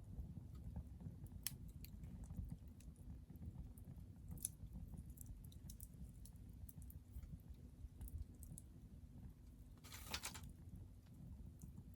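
Hardwood fire crackling faintly, with sparse sharp pops and a brief hissing burst about ten seconds in, over a low steady rumble.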